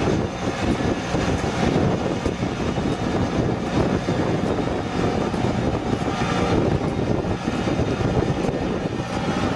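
A tractor's engine running loud and steady.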